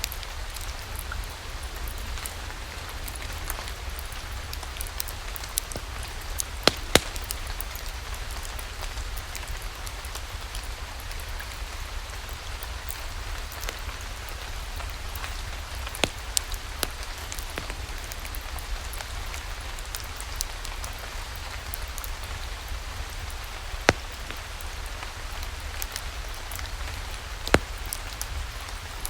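Steady rain falling, with a low rumble underneath and a few sharp clicks scattered through it, the loudest a pair about a quarter of the way in.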